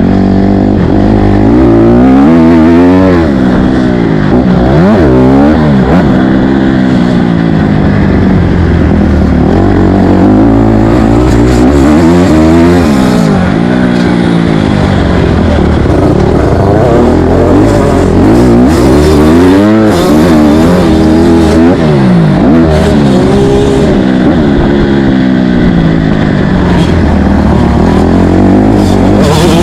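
Motocross dirt bike engine being ridden hard, its pitch climbing and dropping over and over every second or two as the throttle is opened and closed.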